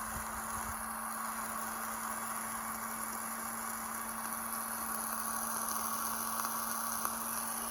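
Faint steady hiss with a constant low hum, no distinct events apart from a faint tick near the end.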